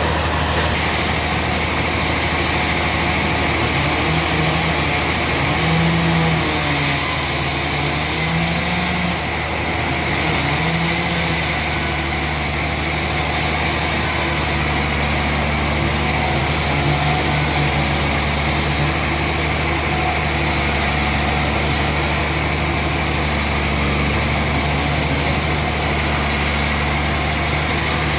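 An engine running steadily at a constant speed, a continuous low drone with a hiss above it.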